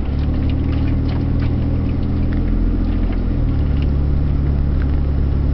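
Toyota LandCruiser 4WD engine running steadily under load as it drives along soft beach sand tracks; the engine note changes about three and a half seconds in, with faint rattles and clicks over it.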